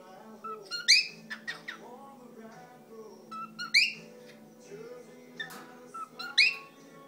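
Cockatiel whistling its song: quieter wavering, warbled notes broken by three loud, sharp rising calls, about one every two and a half seconds.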